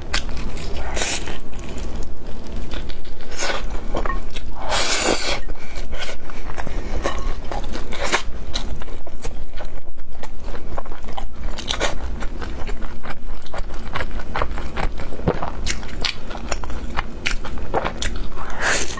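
Biting into and chewing pan-fried chive pockets (jiucai hezi), the fried wrapper making many short, irregular crackly bites and chews.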